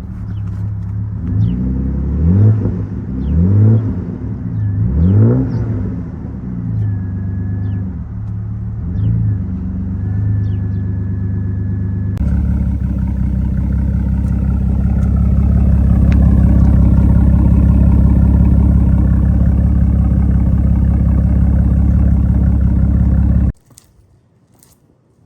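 Exhaust of a 1988 Mercedes-Benz 300CE's M103 inline-six with the middle and rear mufflers deleted and the resonator kept. The engine is revved in several short blips, then settles to idle. Past the middle it changes abruptly to a steady, louder engine drone that cuts off suddenly near the end.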